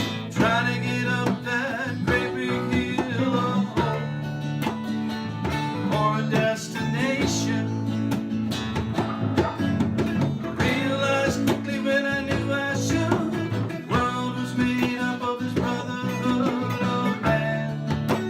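A band playing a rock song live, led by strummed acoustic guitar, with a singer.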